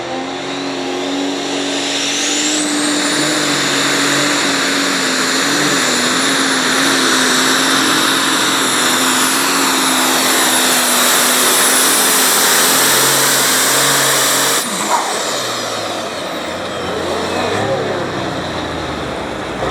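Turbocharged pulling tractor engine running wide open under load: a high turbo whine climbs steeply over the first couple of seconds and then holds over a loud, steady engine note. About fifteen seconds in, the full-power sound cuts off suddenly, and the turbo whine falls away over the next few seconds as the engine drops back.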